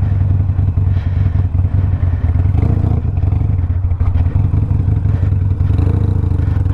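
Stage-one-tuned Harley-Davidson Sportster Iron 1200's air-cooled V-twin running through a Two Brothers 2-into-1 exhaust while under way: a steady low rumble, its pitch rising and falling slightly twice.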